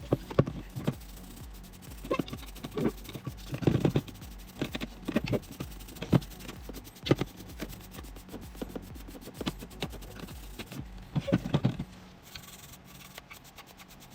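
Irregular hand rubbing or scraping strokes, a dozen or so brief strokes at uneven intervals, over a low steady hum.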